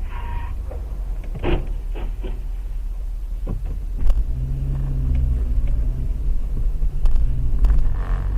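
Low rumble of a moving vehicle with several short knocks in the first half, and a steady low engine hum coming in about halfway through.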